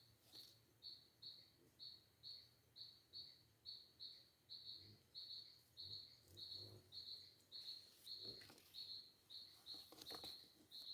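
A bird calling the same short, high note over and over, about two notes a second, faint, with a few soft knocks near the end.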